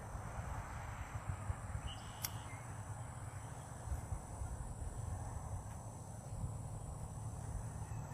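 Outdoor dawn ambience: wind rumbling on the microphone under a steady high-pitched drone, with distant birds calling and one short sharp call about two seconds in.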